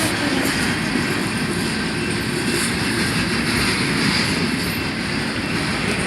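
A train rolling past, its wheels on the rails making a steady, loud rumble and rattle that holds level throughout.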